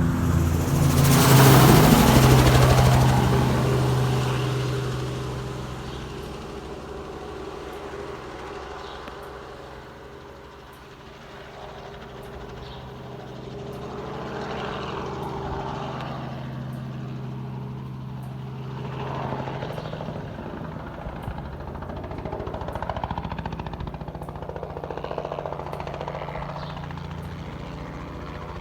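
An engine running steadily. A loud rushing noise swells over the first few seconds and fades by about the fourth second.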